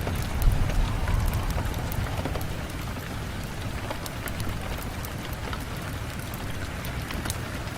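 Steady rain on a window, with many sharp ticks of single drops over a low rumble.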